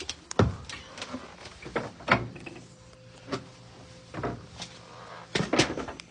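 A run of irregular knocks, bumps and scrapes, the sound of someone moving and handling things in a tight crawlspace. The loudest thumps come about half a second and two seconds in, with a cluster near the end, over a faint steady hum.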